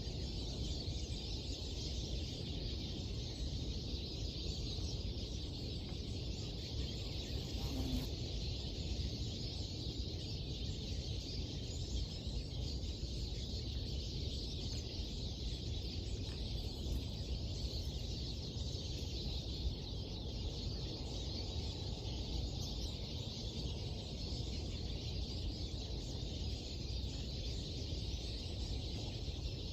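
Birds twittering and chirping continuously over a steady low background rumble.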